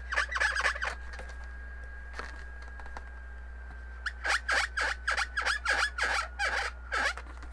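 Marker tip squeaking across an inflated latex balloon as eyes are drawn: a short run of squeaks, a pause, then about three seconds of quick repeated squeaks, roughly three a second.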